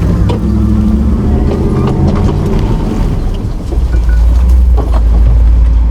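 Nissan GQ Patrol competition 4x4's engine running while it crawls over rough ground, with scattered knocks and clunks from the truck. A heavier, deeper rumble takes over a little past halfway.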